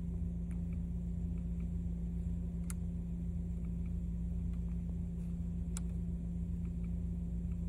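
Mercedes-AMG GLE 63 S's twin-turbo V8 idling, a steady unchanging hum over a low rumble, with a couple of faint ticks.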